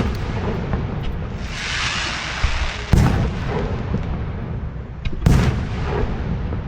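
Aerial fireworks shells bursting: two loud booms about three and five seconds in, over a continuous rumble of further bursts. A rushing hiss builds around two seconds in.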